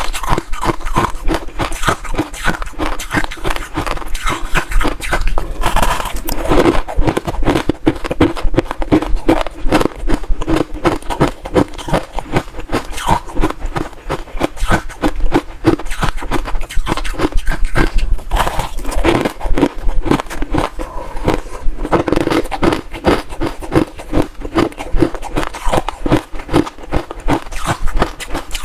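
Close-miked chewing of crunchy ice: loud, rapid crunches one after another, the ice cracking between the teeth.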